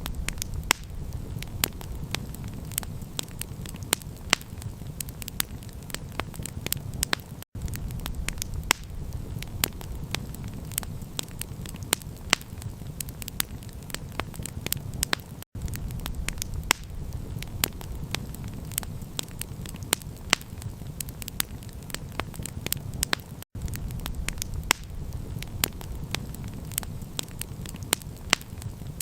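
Campfire crackling: a dense run of sharp pops and snaps over a steady low rumble. The sound cuts out for a split second about every eight seconds, like a short loop being repeated.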